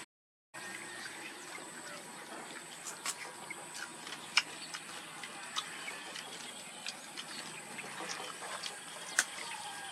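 A person eating crab close to the microphone: wet chewing, sucking and smacking, with many irregular sharp clicks from shell and teeth. The sound cuts out for about half a second at the start, and a faint steady high whine runs underneath.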